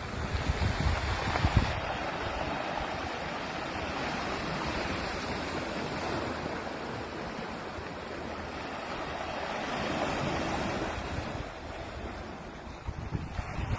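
Sea waves washing onto a pebble beach: a continuous rushing surf, swelling about a second in and again around ten seconds.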